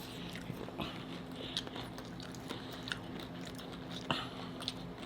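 Close-up chewing and crunching of hard-shell tacos, with scattered crisp crunches, the loudest about four seconds in. A faint steady low hum runs underneath.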